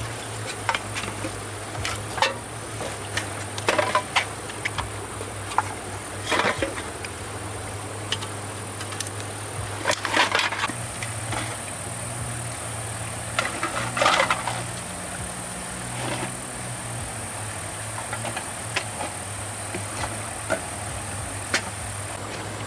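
A steady high-pitched insect drone, with scattered knocks and a few brief scrapes.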